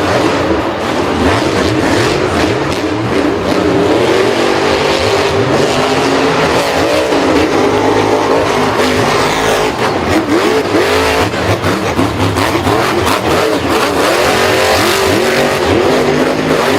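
Several vehicle engines running and revving at once, their pitches rising and falling and overlapping, as in a race.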